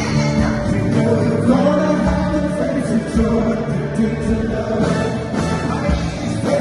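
A band playing a song with a lead voice singing and several voices singing together behind it.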